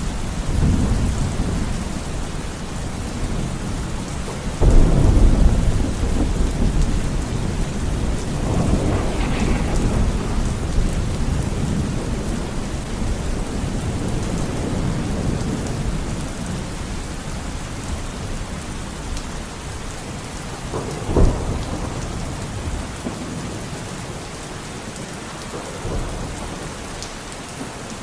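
Steady rain with rolling thunder. A loud thunderclap breaks about five seconds in and rumbles on, a sharper crack comes about twenty-one seconds in, and a smaller one follows a few seconds later as the rumbling dies down.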